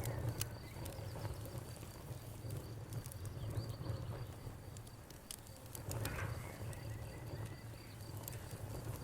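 Wood fire burning with a low steady rumble and a few sharp crackles and pops, while a cricket chirps steadily and faintly in the background.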